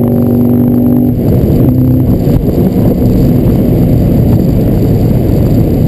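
Cabin sound of a 2023 Cadillac CT5-V Blackwing's supercharged 6.2-litre V8 at freeway speed. It starts as a steady engine drone, and about a second in this breaks up into a rough, rushing mix of engine, road and wind noise.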